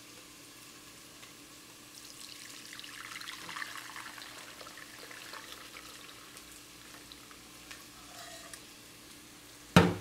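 Faint sizzle of chopped vegetables frying in oil in a pot, with liquid trickling as shrimp stock is strained. A single sharp knock, the loudest sound, comes just before the end.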